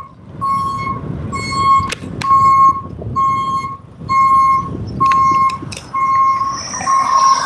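An electronic beeper sounding a steady repeating beep, about two a second, over a low rumble of street noise. A fainter, higher whine joins in near the end.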